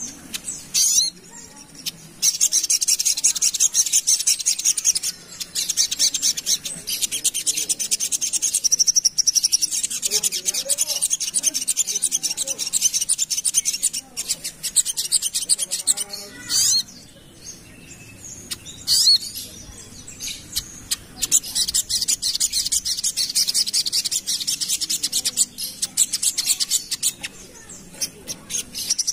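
Little spiderhunter singing a fast, dense, high-pitched chattering song in long unbroken runs, with short pauses between them.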